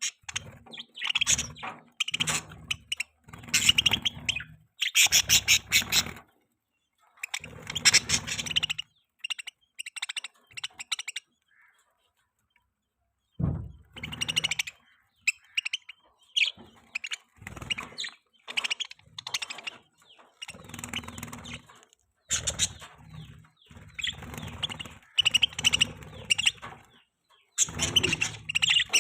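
Budgerigars chirping and chattering in bursts of rapid, scratchy notes a second or two long, with short pauses between and a longer lull about halfway through.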